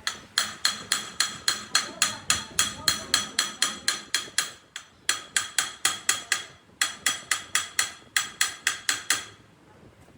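A hammer striking steel in a fast, even series of ringing blows, about three to four a second, with two brief pauses. The strikes stop shortly before the end.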